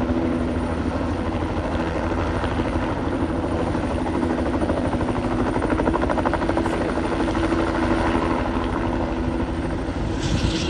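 Helicopter's rotor and engine running steadily, a constant drone with a low beating rumble underneath.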